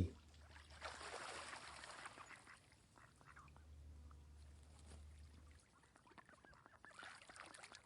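Ducks quacking faintly, with short scattered calls and a soft rushing noise in the first couple of seconds.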